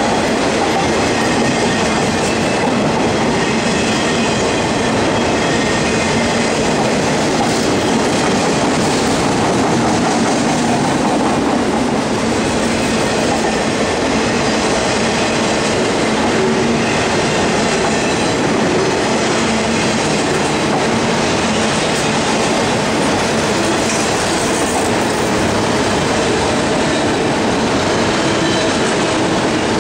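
CSX freight train of multilevel autorack cars rolling past close by: steady noise of steel wheels running on the rails, unbroken throughout.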